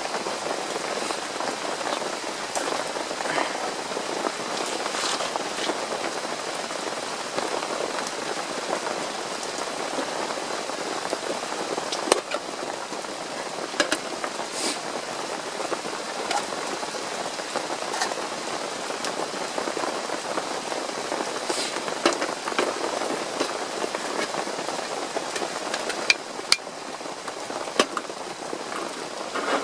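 Steady rain falling, with an occasional louder drop striking sharply among the patter.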